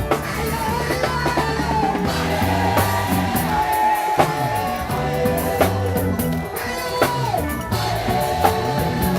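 Praise music played by a band with drum kit, guitar and bass, with a melody line sung over it.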